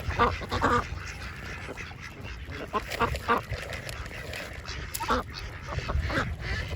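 A group of ducks quacking in short clusters of calls a few seconds apart.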